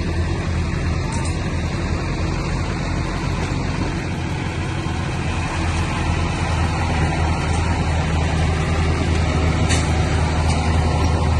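Heavy diesel engine of earthmoving machinery running steadily under load, a deep even hum that grows slightly louder toward the end.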